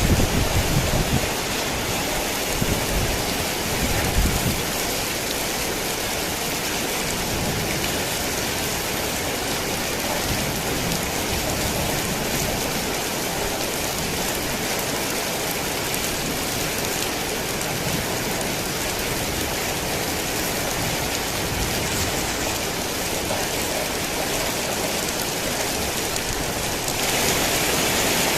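Heavy rain falling in a steady, dense hiss. A low rumble sits under it in the first few seconds, and the rain gets louder just before the end.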